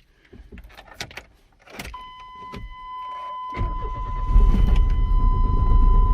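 1995 Chevy S10's engine cranking over and firing up about three and a half seconds in, then running, on a freshly replaced fuel pump after sitting for over five years. A few clicks come before it, and a steady high warning chime sounds from about two seconds in.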